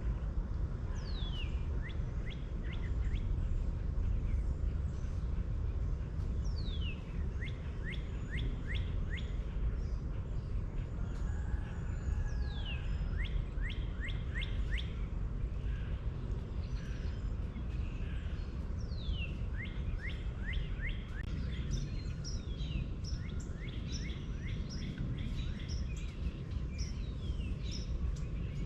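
A bird singing the same phrase about every six seconds: a quick downward-sliding note followed by a fast run of short notes. Under it is a steady low rumbling noise.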